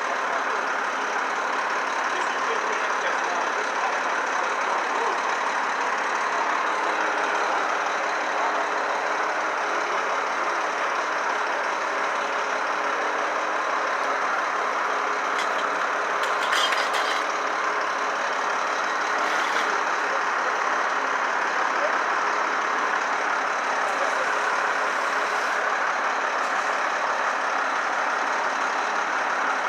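Heavy trucks' diesel engines idling with steady street noise, and a few brief sharp noises around the middle.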